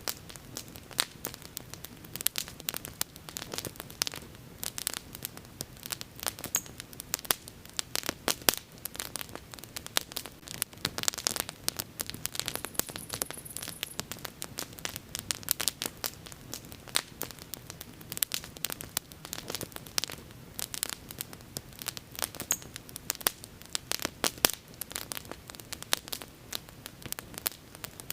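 Wood bonfire crackling: dense, irregular pops and snaps of burning wood over a soft steady hiss of flame.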